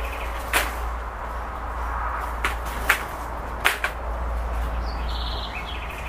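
A songbird gives a short, rapid, high trill about five seconds in, over steady outdoor background noise with a low hum. Several sharp snaps or clicks fall in between, the loudest about three seconds in.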